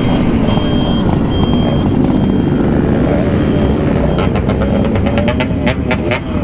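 Motorcycle engine running hard at speed, its note wavering under heavy wind rushing over the microphone, with a patch of rapid crackling about two-thirds of the way through.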